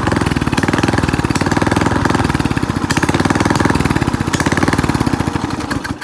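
Engine running with its exhaust removed: a loud, rapid train of open firing pulses, with the fuel screw turned up to richen it. The pulses slow and the engine cuts off at the very end.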